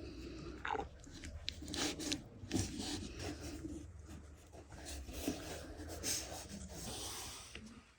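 Irregular rubbing and scraping, with a few short knocks.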